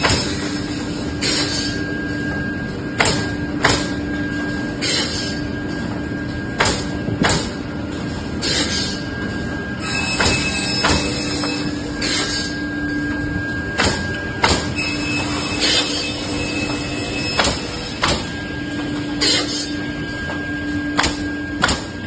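Automatic pallet-making machine running with a steady hum, punctuated by short, sharp working strokes roughly once a second.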